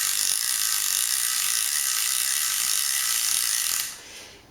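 Clicker of a Tribrid Alternative fishing reel buzzing as the spool turns, the pawl snapping over the teeth so fast that the clicks run together into one steady high-pitched rattle, which stops about four seconds in. The clicker is engaged.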